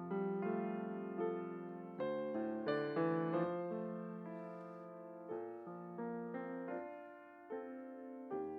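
Keyboard instrument, sounding like an electric or digital piano, playing slow, sustained chords as quiet communion music.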